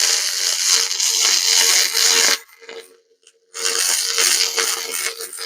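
Pulsed cleaning laser firing on carbon deposits on a small engine part: a loud, steady hissing crackle with a buzzing tone in it. It stops for about a second partway through, then starts again.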